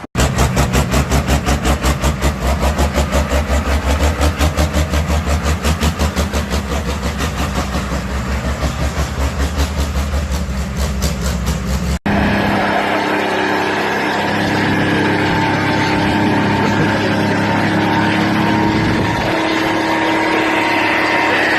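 Diesel truck engine running with an even pulsing beat, about five pulses a second. After a sudden cut about halfway through comes a steady, higher engine note that rises briefly near the end.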